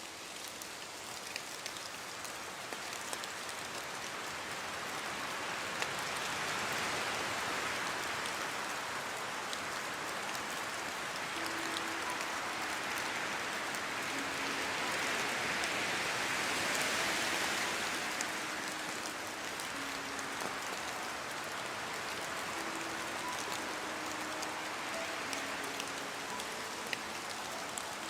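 Steady rainfall hissing and pattering on surfaces, swelling louder through the middle and easing back toward the end.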